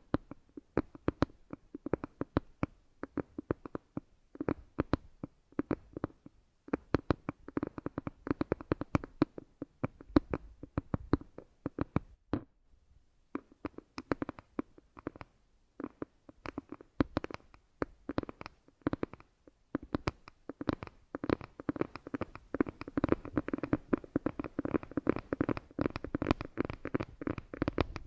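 Rapid, irregular close-miked tapping and clicking, many strikes a second, with brief pauses about a quarter and halfway through and denser tapping near the end.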